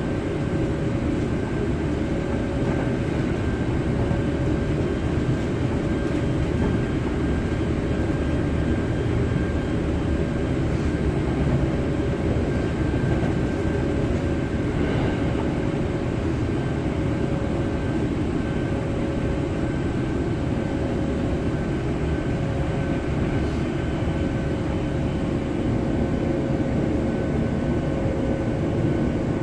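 Hankyu 7000 series electric train running at steady speed, heard from inside the passenger car: a dense, steady rumble of wheels and running gear with a faint steady whine.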